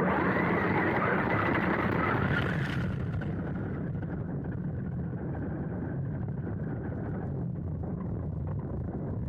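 A vehicle running steadily over rough ground, with a hiss that eases about three seconds in.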